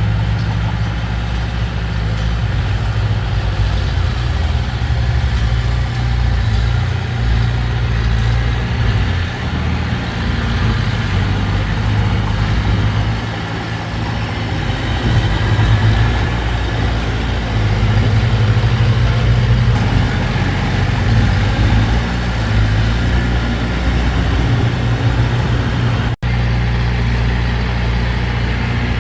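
Heavy diesel engine of earthmoving machinery running steadily at a rough, low pitch, its level rising and falling slightly. The sound breaks off for an instant about three seconds before the end.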